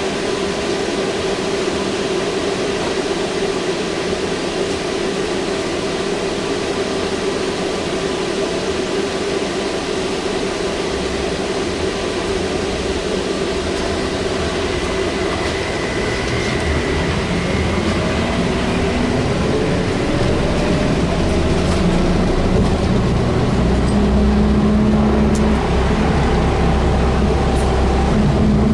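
Interior running noise of a VMZ-5298.01 trolleybus on the move, a steady hum and rumble. In the second half a whine slowly rises in pitch and the low rumble grows as the trolleybus picks up speed.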